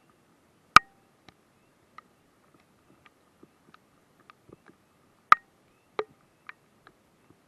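Raindrops striking the camera: irregular sharp taps, two much louder than the rest about a second in and near the five-second mark, with a dozen fainter ticks scattered between.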